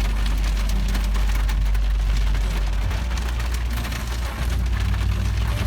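Heavy thunderstorm rain pouring down, a dense hiss full of fine drop ticks over a steady low rumble.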